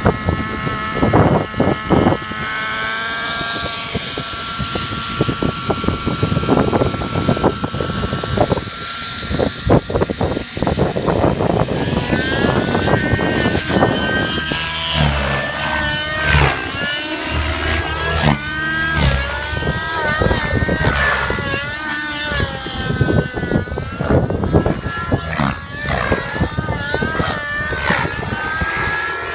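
Nitro glow engine of a 600-size RC helicopter in flight, a high engine whine that holds one pitch for several seconds, then from about halfway rises and falls again and again as the throttle and manoeuvres change. Strong gusting wind buffets the microphone throughout.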